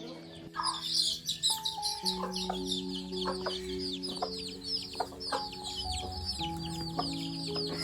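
A flock of desi chicks peeping continuously in many quick, falling chirps, over background music with long held notes.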